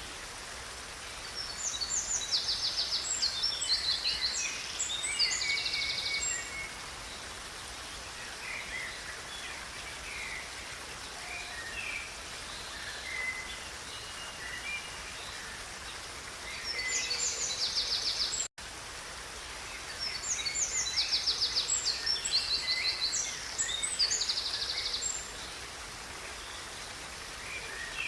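Songbird singing fast, high trilling phrases over the steady rush of a river; three bursts of song, the first and last about four to five seconds long. The sound drops out for an instant about two-thirds of the way through.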